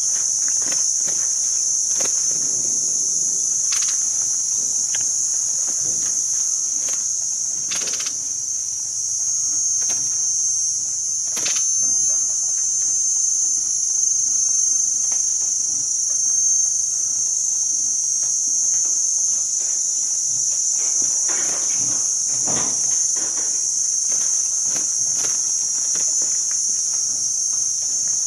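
A steady, high-pitched chorus of insects, even and unbroken, with scattered faint clicks and knocks.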